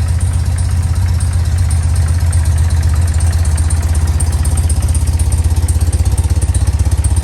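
1995 BMW R100GS Paris-Dakar's air-cooled boxer twin idling steadily with the choke off.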